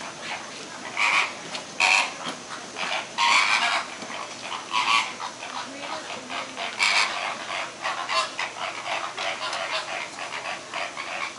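A flock of flamingos calling: a dense run of short calls, with louder ones standing out every second or two.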